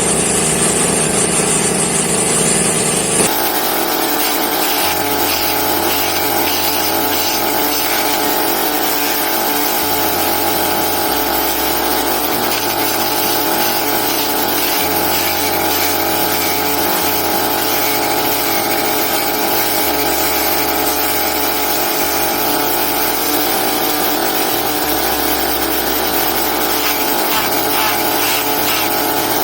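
Homemade grass chopper's motor running steadily. About three seconds in, the sound changes abruptly and then holds steady.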